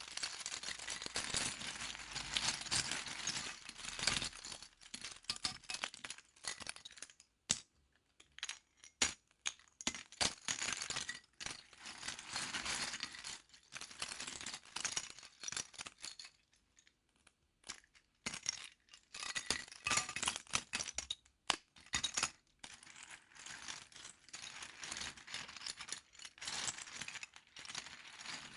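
Small plastic LEGO pieces clicking and rattling as they are handled and fitted together during building, in irregular runs of sharp clicks with short pauses.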